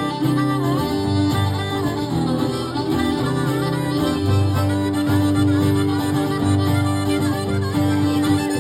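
Harmonica playing a solo over guitar in the instrumental break of a live Americana song, its notes bending and wavering.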